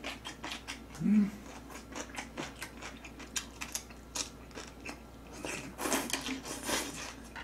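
Close-miked chewing: a run of wet mouth clicks and smacks as food is eaten, with a short closed-mouth hum about a second in and a busier stretch of chewing near the end.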